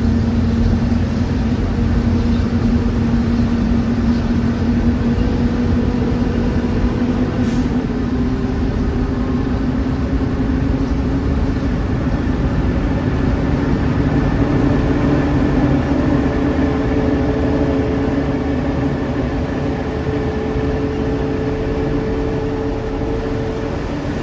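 Heavy truck engine running steadily. Its pitch drops once about eight seconds in.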